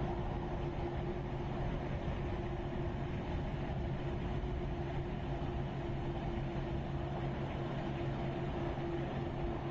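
Steady engine hum holding two fixed low pitches, unchanging throughout.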